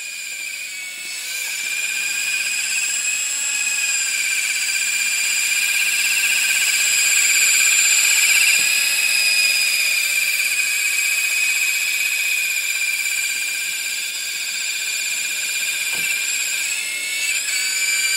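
The 380 electric motor and rotors of a W908-1 toy RC helicopter whining at a high, steady pitch. The whine grows louder over the first several seconds and dips briefly in pitch about a second in and again near the end, as the throttle changes.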